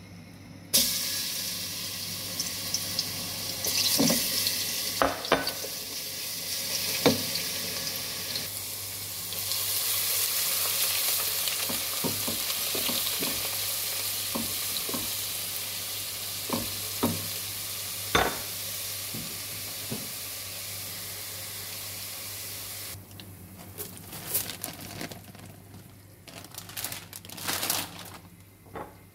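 Oil in a nonstick pot sizzling loudly as food is tipped in about a second in, then rice frying in the oil while a silicone spatula stirs it and knocks against the pot now and then. Near the end the sizzle drops away sharply, leaving scattered knocks and rustles.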